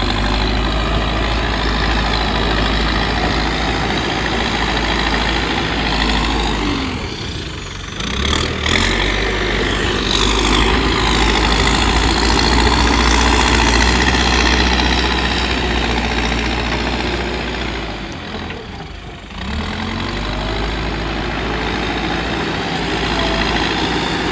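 Diesel engine of a JCB backhoe loader running while it works, revving up for several seconds in the middle, with two short dips where it eases off.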